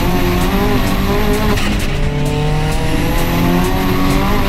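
Turbocharged 1.8-litre four-cylinder (Audi S3 engine with a GT28 turbo and a decat 3-inch exhaust) in a VW Lupo GTI pulling hard, heard from inside the cabin. The engine note climbs, drops at a gear change about a second and a half in, then climbs again to another shift near the end, with a high whine over each pull.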